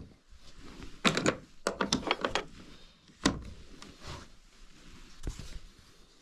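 Knocks and clatter of hands-on renovation work: a quick cluster of knocks about a second in, then single sharp knocks a little past halfway and near the end.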